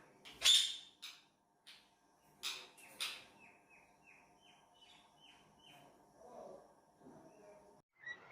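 Caged pet parrots calling: two loud, shrill calls about half a second and three seconds in, then a quick run of short, downward chirps.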